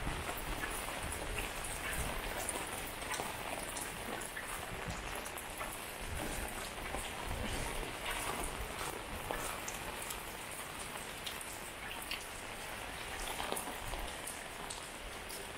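Steady rain falling, with many separate drop hits ticking close by amid an even hiss of rainfall.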